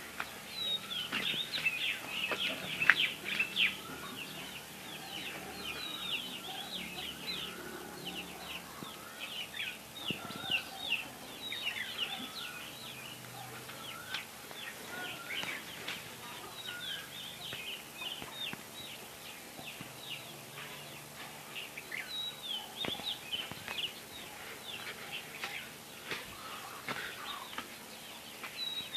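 Chickens calling, with a busy stream of short, high chirps and peeps, thickest in the first half.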